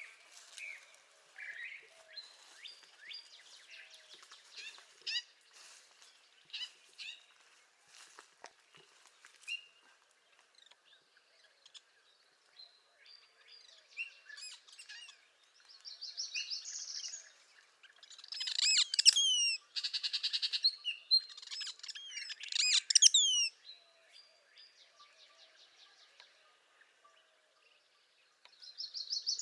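Northern parula singing: several loud song phrases cluster in the second half, with softer bird chirps scattered through the first half.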